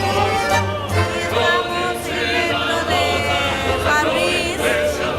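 A group of voices singing together in harmony over a low, repeating bass note.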